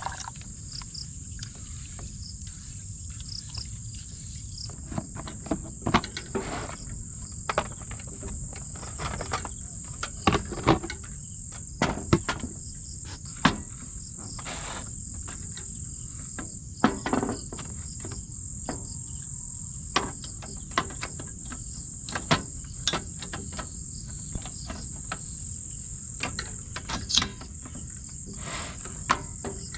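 Insects, likely crickets, chirring in one steady high-pitched trill, with scattered sharp knocks and clicks on top at irregular intervals.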